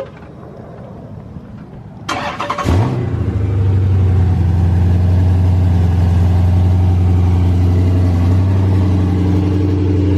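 A car engine is cranked about two seconds in, catches with a brief rise in revs, and settles into a steady, loud idle.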